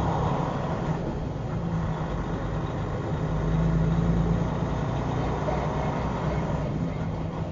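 Steady low hum of a vehicle's engine and road noise, heard from inside a car.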